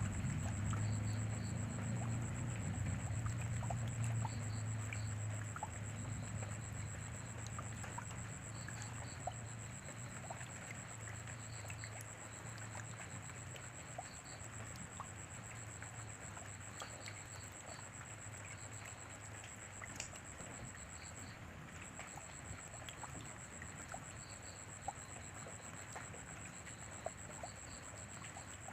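Steady rain, an even hiss full of scattered drop ticks, with a low rumble that fades away over the first several seconds. Short, faint, high chirps come in small groups every few seconds over a steady high-pitched whine.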